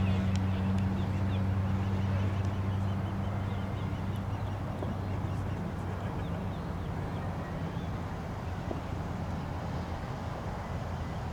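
A low, steady engine-like hum that fades over the first few seconds, with faint bird chirps over it.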